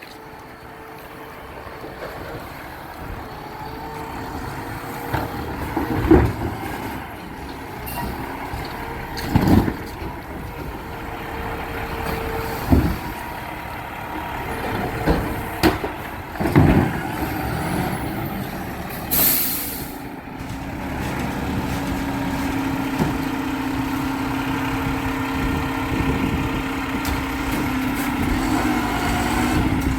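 Garbage truck at work: its diesel engine running while several loud bangs ring out, a short air-brake hiss, then the engine pulling steadily.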